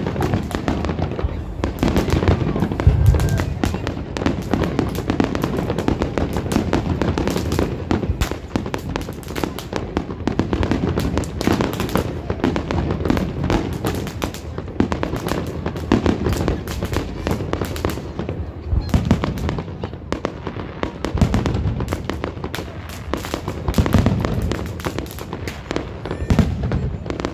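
Fireworks display: aerial shells bursting in a dense, unbroken run of bangs and crackles, with deeper booms now and then.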